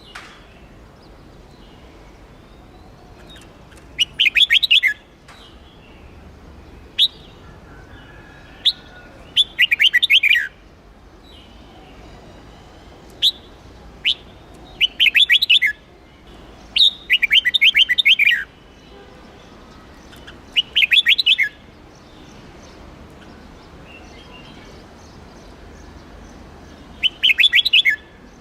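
Red-whiskered bulbul singing: six bursts of rapid, chattering notes, each about a second long, a few seconds apart, with single sharp chirps in between.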